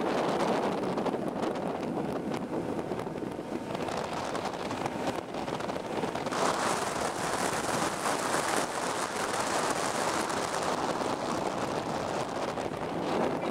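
Wind buffeting the microphone over the rush of water and motor noise of a small outboard-powered boat under way, with no clear engine note. About six seconds in it turns brighter and hissier.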